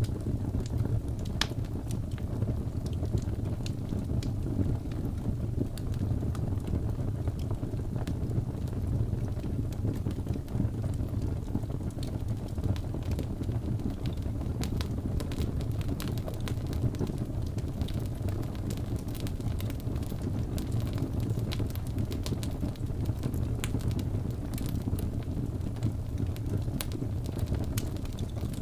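Wood fire burning: a steady low rush of flame with frequent small, irregular crackles and pops, which come more thickly in the second half.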